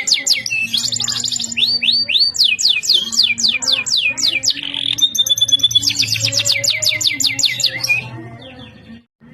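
Domestic canary singing: fast rolling trills of repeated sweeping notes, a short held whistle about halfway through, then more trills that fade and stop shortly before the end.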